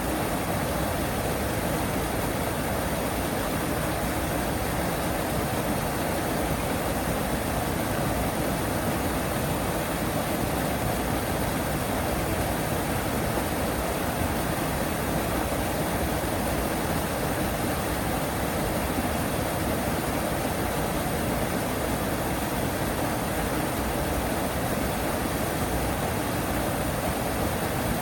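Steady, even rush of falling water with no duck calls or other distinct sounds.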